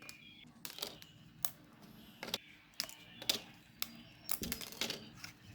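A series of about a dozen irregular sharp clicks and snaps from hand work on the craft materials, bunched closer together about four seconds in.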